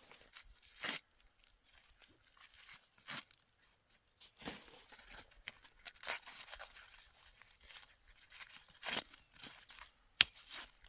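Dry plant material rustling and tearing in irregular bursts, with one sharp snap near the end.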